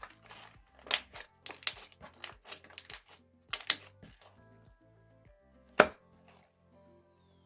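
Slime squeezed inside a plastic zipper bag, giving a run of wet squelching crackles over the first four seconds. Then a single sharp pop comes near six seconds as the slime bag bursts. Soft guitar music plays underneath.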